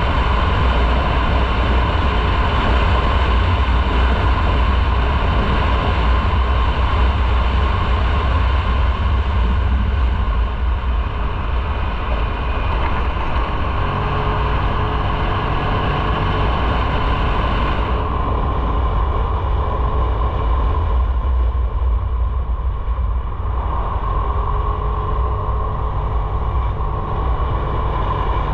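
A motorcycle's engine running steadily while riding, over a steady low rumble and rushing noise. About two-thirds of the way through, the high hiss drops away and the sound turns duller.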